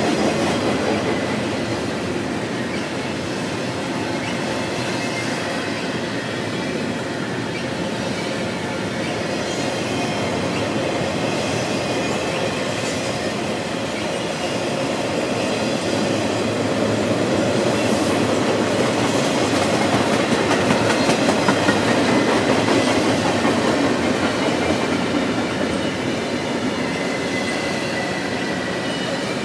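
Double-stack intermodal freight train rolling past at speed: steady steel-wheel noise and clatter over the rail joints, with faint brief high squeals now and then.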